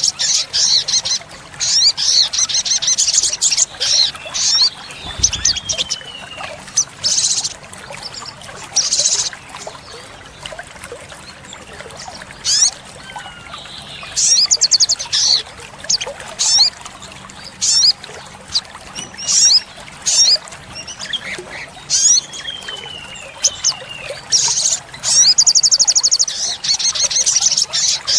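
Olive-backed sunbird singing: fast, high-pitched trills and sharp chirps in repeated bursts, with a few short falling notes in between. The longest rapid trills come near the start and near the end.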